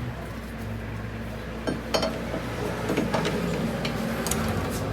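Metal tools or parts clinking against each other about five times over a steady low machine hum.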